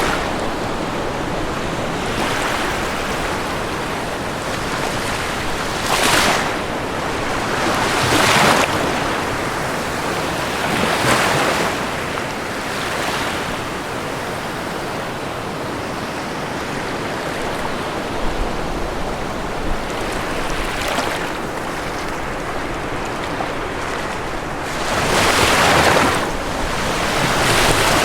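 Ocean waves breaking on a shore: a steady wash of surf with individual waves swelling and breaking about every two to five seconds, the strongest near the end.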